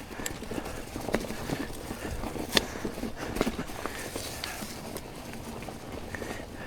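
A mountain bike rolling over rough dirt trail: irregular knocks and rattles from the frame and drivetrain over a steady hiss of tyres, with one sharp knock about two and a half seconds in.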